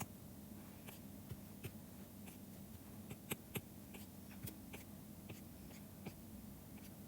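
Faint, irregular clicks and taps of a stylus pen on a drawing tablet during digital drawing, two of them louder about three and a half seconds in, over a low steady hum.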